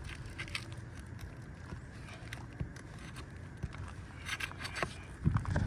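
Scattered light scrapes and clicks of asphalt shingle removal on a roof, over a low rumble of wind on the microphone that grows louder near the end.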